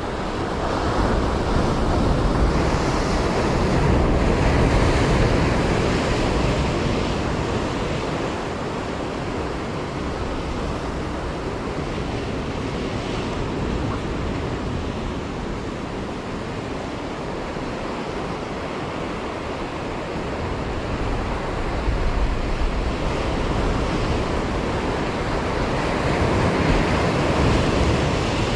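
Sea surf surging and washing against a concrete tetrapod breakwater, with wind on the microphone. The wash swells twice, in the first few seconds and again near the end.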